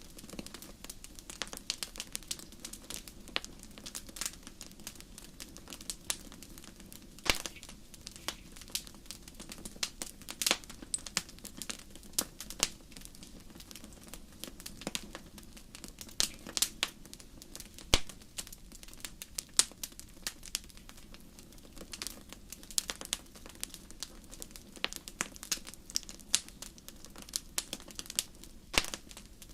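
Wood fire crackling in a fireplace: irregular sharp pops and snaps, several a second, over a steady low hiss of the burning logs.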